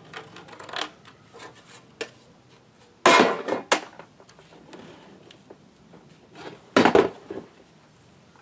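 Wooden lumber boards knocking and clattering as they are handled and set down: a few light knocks early, then two loud clattering impacts, about three seconds and about seven seconds in.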